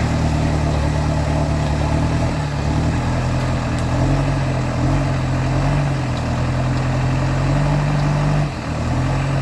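Offroad 4x4 vehicle engine running at a steady low speed, the pitch rising and falling slightly, with a brief drop in revs near the end.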